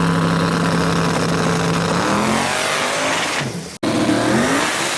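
LS-swapped V8 drag truck engine at wide-open throttle, its pitch holding high and steady, then falling away as it comes off the throttle. After an abrupt cut near the end, an engine revs up again.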